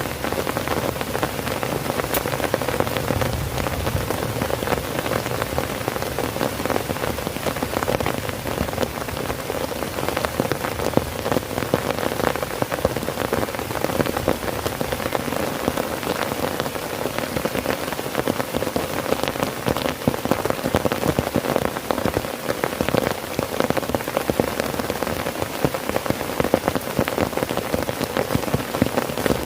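Heavy rain falling on a tent, a steady dense patter of many individual drops.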